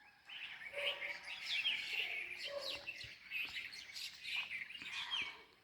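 Many small birds chirping and twittering together in a flowering tree, with a constant scatter of short, overlapping high calls.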